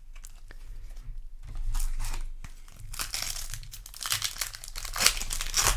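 Plastic packaging crinkling and rustling in irregular bursts, growing louder from about a second and a half in.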